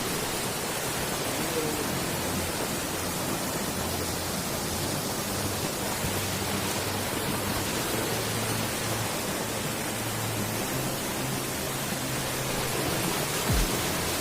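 Waterfall water rushing as a steady, even noise, with a couple of low thumps near the end.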